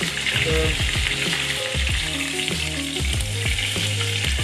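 Chicken frying in hot oil in a pan, a steady sizzle.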